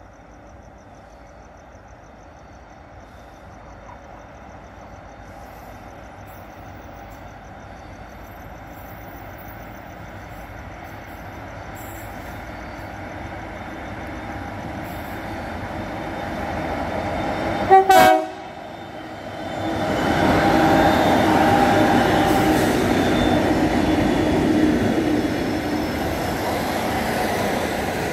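A train approaching and growing steadily louder sounds one short horn blast about eighteen seconds in. It then runs past close by with a loud, continuous rumble of wheels on the rails.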